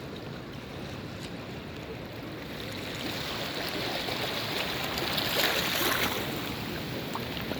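Sea waves washing onto a beach, a steady rush that swells about three seconds in and peaks in a brighter hiss of breaking water near six seconds, then eases.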